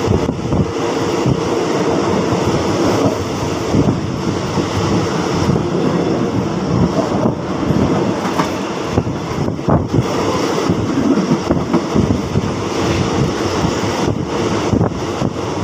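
Passenger train running along the track, heard from on board: a steady rumble of the carriage with wheels clattering irregularly over the rails.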